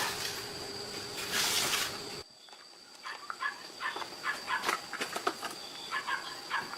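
Short, high calls of a small animal repeating irregularly. About two seconds in, the background changes abruptly, as at an edit.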